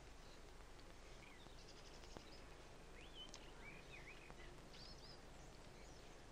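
Faint birds chirping in short scattered calls over a steady hiss, with a single faint click about two seconds in.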